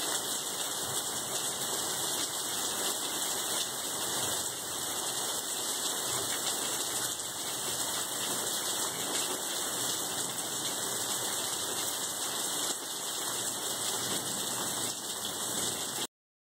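Heavy rain falling steadily during a thunderstorm, a continuous even hiss with no thunder clap standing out. It cuts off suddenly near the end.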